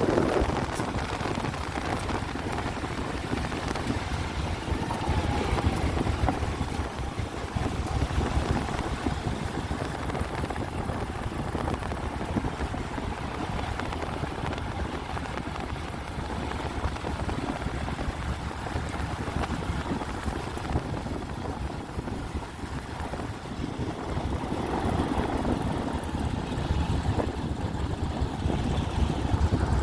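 GE C36-7 diesel locomotive running, a steady low rumble, with wind noise on the microphone.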